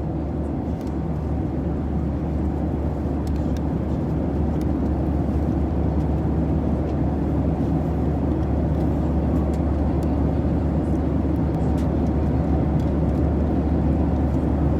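Steady low rumble of a car in motion, engine and road noise heard from inside, slowly growing a little louder.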